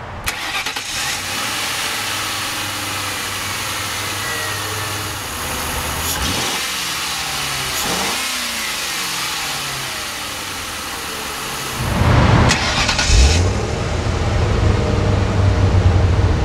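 1995 Lincoln Mark VIII's 4.6-litre twin-cam 32-valve V8 running and being revved, its pitch rising and falling around six and eight seconds in. From about twelve seconds in it gets louder and deeper.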